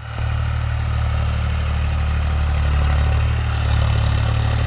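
Tractor engine idling steadily with a deep, even running beat.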